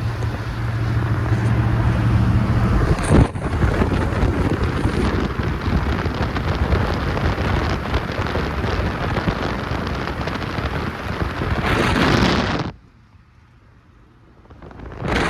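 Wind buffeting the microphone. A steady low hum runs under it for the first three seconds. Near the end the noise cuts out suddenly for about two seconds, then returns.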